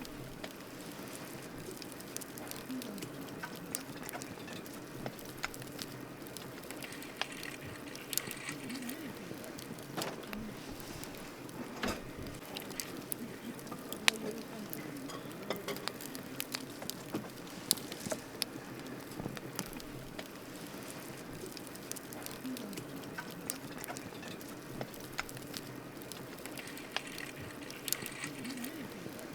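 Wood campfire burning with a steady crackle and irregular sharp pops, the loudest pop about fourteen seconds in.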